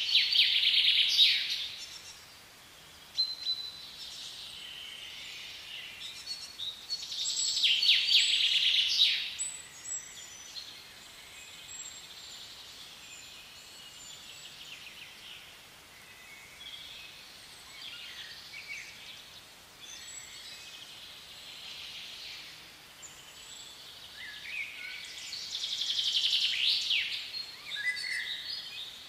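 Songbirds singing: three loud bouts of rapid, high trilling song, at the start, about eight seconds in and near the end, with fainter chirps between.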